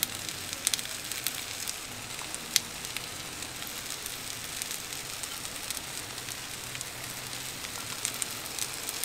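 Potato, egg and minced-meat mixture sizzling steadily in a pan over a gas burner, with scattered sharp ticks and crackles.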